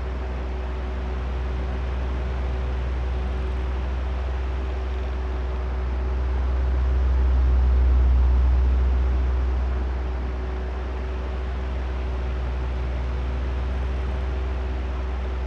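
Electric oscillating fan running: a steady low drone of moving air with a faint constant motor hum. It swells louder about halfway through as the fan head turns toward the microphones, then falls away as it swings back.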